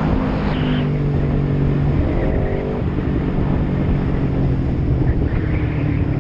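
A motor vehicle's engine running steadily while under way, over a constant rush of road and wind noise. The engine note shifts about three seconds in.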